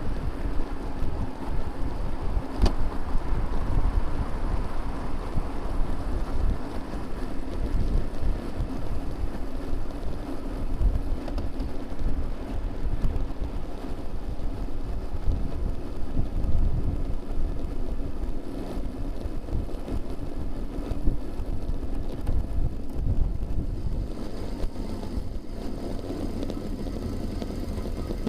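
Wind rumbling on a bicycle-mounted camera's microphone, mixed with the steady hum of motor traffic on a multi-lane road. There is a single sharp click about two and a half seconds in.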